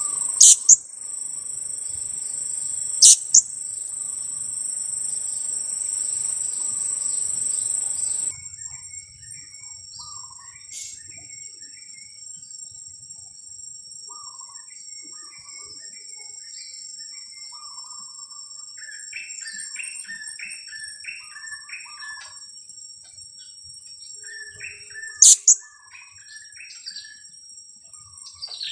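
Young blue-crowned hanging parrots (serindit) calling: short chirps in quick runs of about four or five a second, with a few very loud, sharp, high-pitched chirps standing out, over a steady high-pitched insect drone. A low background rumble cuts off about 8 seconds in.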